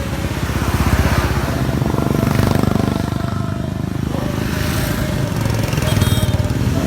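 Motorcycles riding past in a group, their engines running loudly with a fast low pulse.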